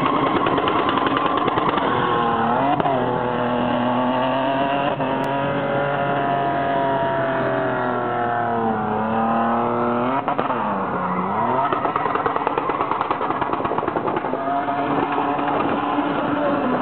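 Car engine revving hard through a drift, its pitch held high and dipping and climbing back several times, over the noise of spinning tyres.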